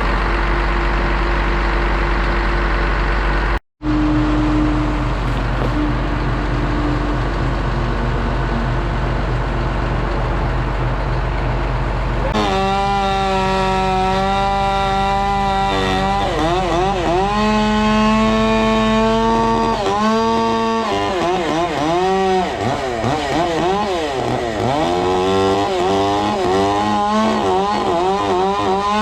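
A steady engine drone, broken by a split-second dropout. About twelve seconds in, a Stihl chainsaw takes over at high revs, then its pitch repeatedly dips and recovers as it works under load in the cut.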